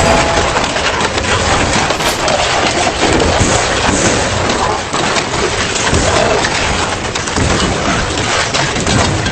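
Double-shaft industrial shredder tearing through metal: a dense, continuous crunching and cracking, with sharp metallic snaps throughout.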